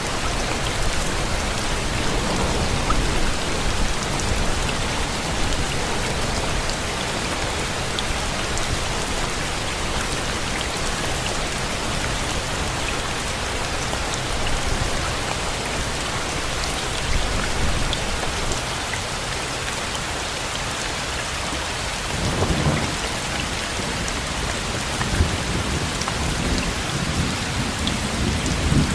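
Steady rain hissing, with low rumbles of thunder about three-quarters of the way through and again near the end.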